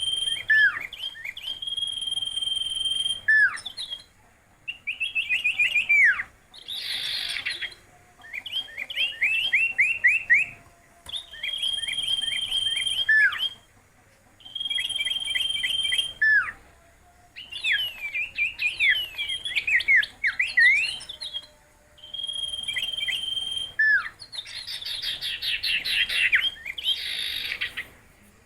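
A songbird singing in repeated phrases, each a long held high whistle that breaks into quick downward-sliding notes, with short pauses between. Harsher rasping chatter comes in about seven seconds in and again near the end.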